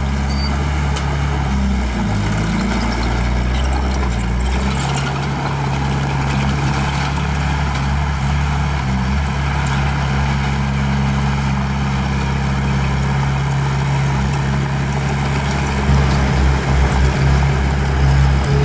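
Small bulldozer's diesel engine running steadily. Its pitch shifts during the first few seconds, then holds steady, and it grows louder near the end as load comes on.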